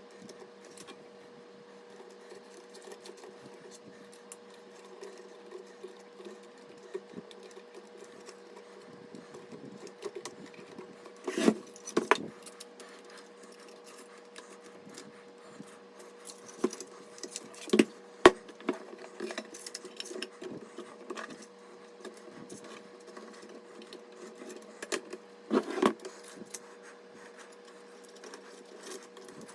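Scattered clicks, taps and knocks of PC parts being handled and fitted, with clusters of sharper knocks about a third of the way in, near the middle and again near the end, over a steady faint hum.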